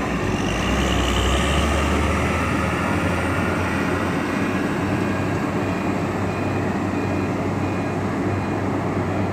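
Heavy truck engine running with a deep rumble that is strongest for the first few seconds, over a steady din of machinery.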